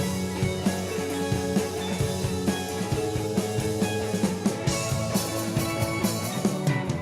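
A rock band playing an instrumental passage: guitar notes held over a steady drum beat.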